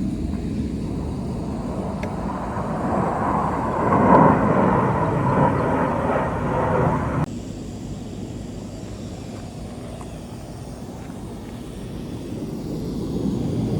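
Blue Angels jet flying over: a loud rushing jet noise swells to a peak about four seconds in and cuts off suddenly a little after seven seconds. A lower rumble then builds again near the end.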